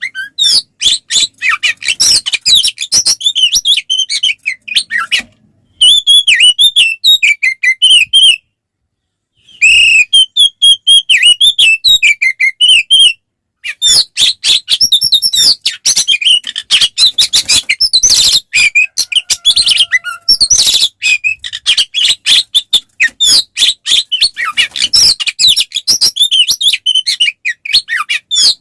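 Oriental magpie-robin (kacer) singing a loud, fast, unbroken stream of varied whistles and chattering notes, its aggressive fighting-mode song. The song stops dead three times for a moment in the first half.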